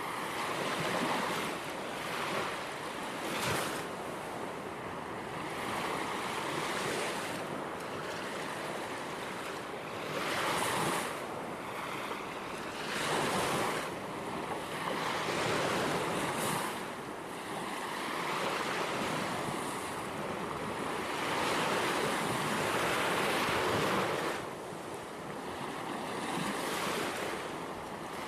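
Gentle ocean waves washing in and out, the surf swelling and easing every few seconds.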